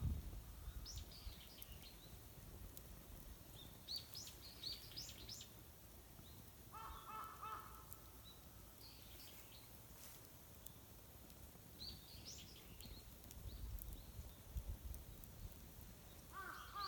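Faint bird calls: clusters of short, high chirps every few seconds, and a harsher, honk-like call of steady pitch lasting about a second, around seven seconds in. A few low thuds come near the start and around fourteen seconds in.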